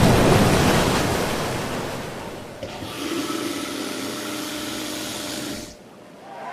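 Rushing floodwater: a loud surge of water noise that swells and fades, then a different steady rush with a faint hum from about three seconds in, cutting off suddenly near the end.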